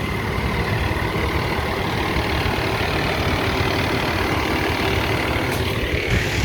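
A parked van's engine idling steadily, a constant low rumble.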